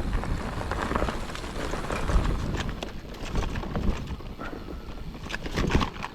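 Mountain bike rolling along a dirt forest trail, with irregular knocks and rattles as it jolts over bumps, over a low rumble of wind on the microphone.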